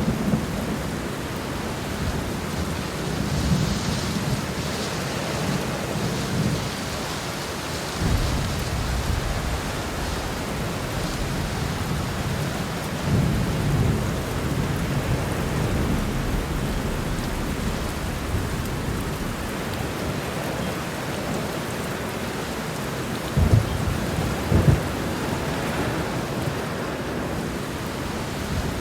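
Heavy rain falling steadily with thunder rumbling over it, the rumbles swelling a few times, with two sharper cracks about two-thirds of the way through.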